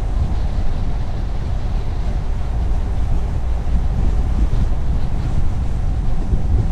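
Steady low road rumble of a car driving on a highway, tyre and wind noise running without a break.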